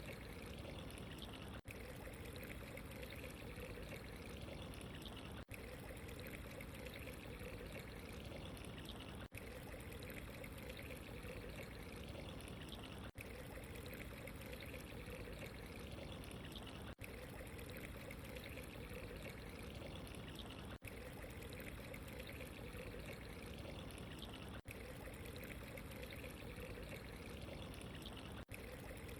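Steady trickling, pouring water with no pauses in the flow, except for a very brief dropout about every four seconds.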